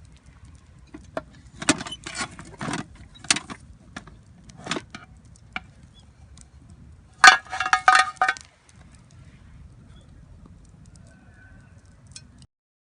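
Metal camp cookware clinking and clattering as it is handled: scattered knocks, with a louder run of ringing metallic clinks about seven seconds in.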